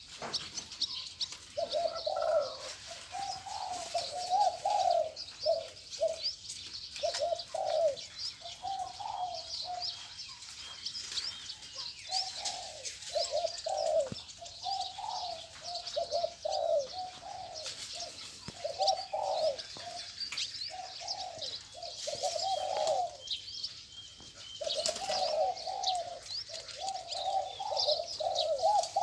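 Spotted doves cooing in repeated short phrases throughout, with small birds chirping high-pitched in the background.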